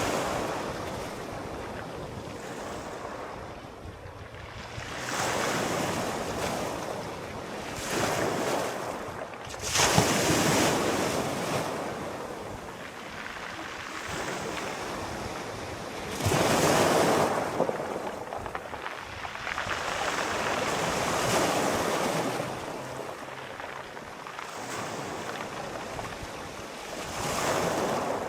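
Sea waves breaking, each surge of surf swelling and falling away over a few seconds; the loudest, sharpest breaks come about ten seconds in and again around sixteen seconds.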